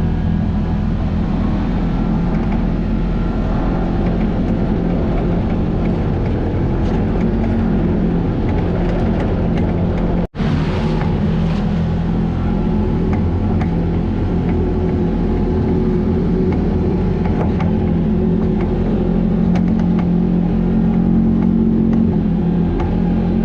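A vehicle's engine running steadily, with a brief total break in the sound about ten seconds in.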